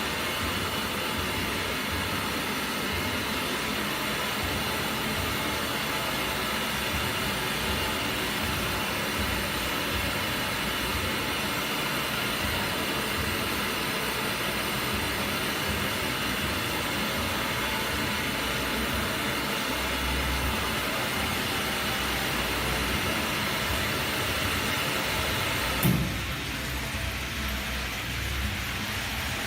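DUX toilet cistern refilling after a flush: a steady hiss of water running in through the inlet valve, which shuts off with a sharp click about 26 seconds in, after which the hiss drops to a much quieter level.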